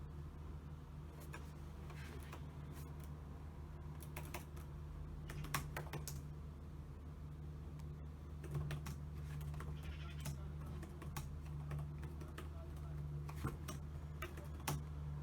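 Typing on a computer keyboard: irregular keystroke clicks, sparse in places and bunched in short runs, over a steady low hum.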